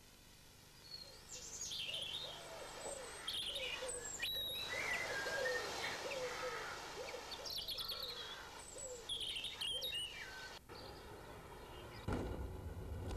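Birds chirping and calling, several high songs overlapping over a run of short, lower repeated calls. A low rumble comes in near the end.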